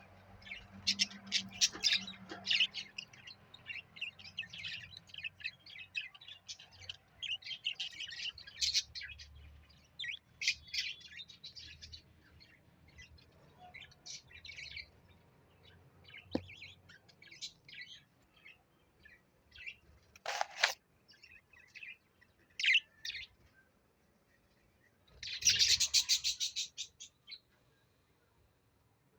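A parrot chirping and chattering in short, irregular high calls, with a fast run of chirps near the end.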